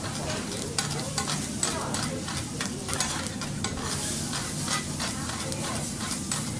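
Food sizzling steadily on a teppanyaki griddle, with many quick, sharp clicks and scrapes of metal spatulas working on the hot plate.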